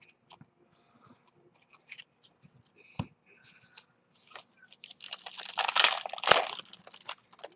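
Trading cards and their pack wrapping being handled by hand: scattered light clicks and a knock about three seconds in, then a louder, denser stretch of crinkling between about five and seven seconds, with another knock just past six seconds.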